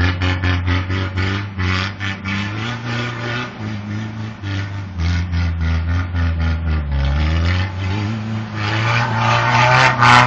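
Car engine revving as the car spins donuts in snow, its pitch rising and falling, with a fast regular pulsing noise over it that grows louder near the end.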